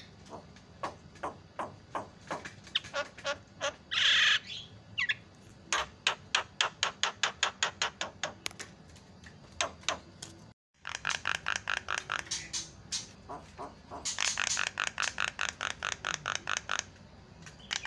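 Javan myna calling in fast runs of sharp, repeated notes, about five a second, with a loud harsh squawk about four seconds in.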